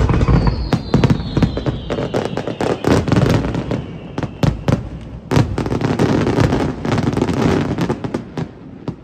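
Fireworks going off in a rapid barrage of overlapping bangs and crackles that starts suddenly and dies away near the end. A falling whistle runs through the first few seconds.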